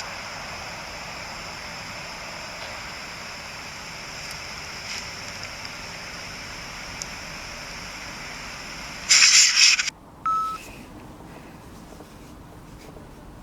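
Steady electronic hiss with a faint high whine. About nine seconds in, a loud burst of static lasts under a second and cuts off suddenly, followed by a short beep.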